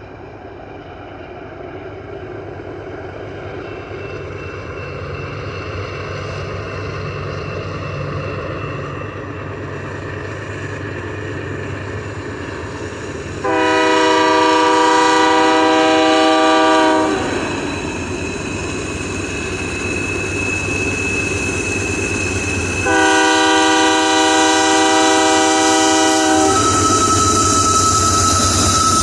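Union Pacific GE AC4400CW diesel locomotives approaching under load on a climb, their engine rumble growing louder, then sounding two long blasts on a multi-note air horn.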